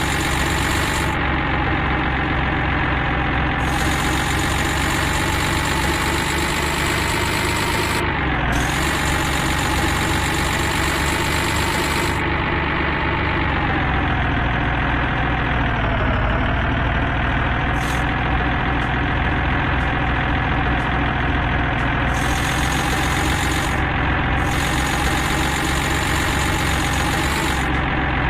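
A steady engine-like running sound, like a vehicle engine idling, with its pitch dipping briefly about eight and sixteen seconds in.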